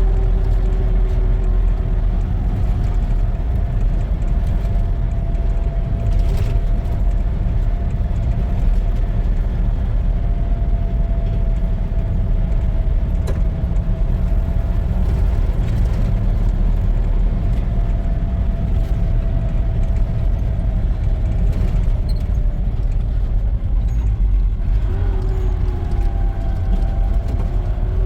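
A motor vehicle's engine running steadily under a loud low rumble, its pitch holding level and then wavering near the end.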